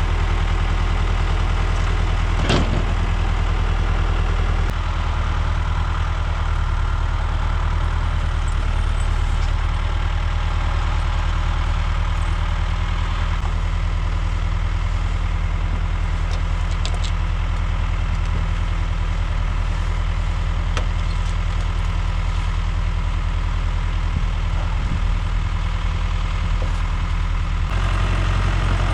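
Tractor engine idling steadily. Its speed drops slightly about five seconds in and picks back up near the end. A single sharp knock sounds about two and a half seconds in.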